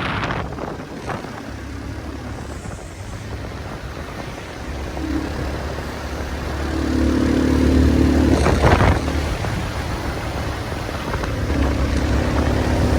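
Motorcycle riding along a highway: the engine running with wind rushing over the microphone. The engine note grows louder and steadier about five seconds in, eases off, and comes up again near the end.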